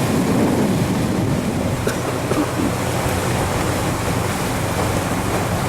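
Cruise boat under way: a steady low engine hum under the rush of water and wind buffeting the microphone.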